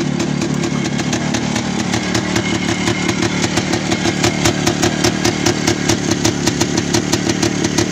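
Single-cylinder 175 cc two-stroke engine of a CZ 175 type 505 three-wheeler idling, a few minutes into its first run after years of standing. It settles into a more pronounced regular pulsing beat about two seconds in.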